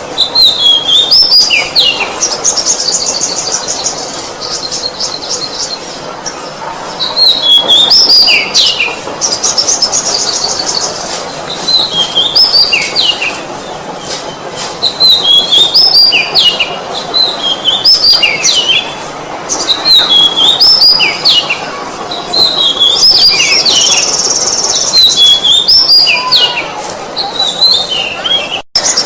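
Oriental magpie-robin singing: repeated phrases of clear whistled notes sliding up and down, a few of them mixed with fast, high trills, with short pauses between phrases.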